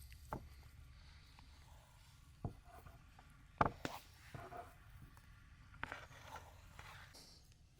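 A few scattered light knocks and clicks over a quiet background, the loudest pair coming a little over a third of the way in.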